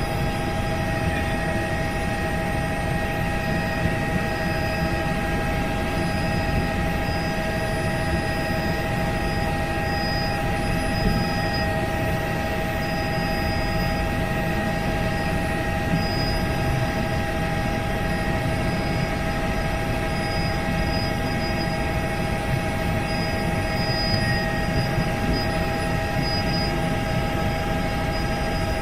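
Helicopter in flight: a steady drone with several constant whining tones over it, unchanging throughout.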